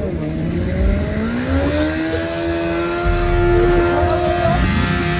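Car engine revving up over about two seconds, then held at high revs with a steady note over a low rumble.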